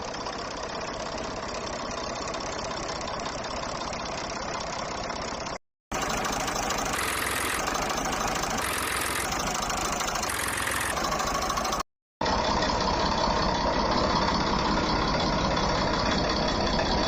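Small tractor diesel engines running steadily, heard in three separate clips split by two brief silent cuts.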